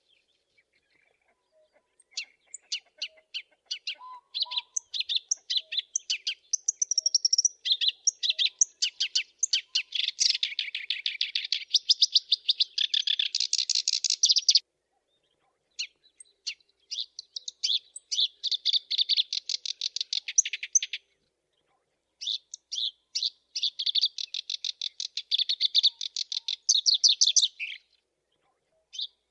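Black-browed reed warbler singing: three long bouts of fast, chattering, scratchy song notes, each broken off by a short pause.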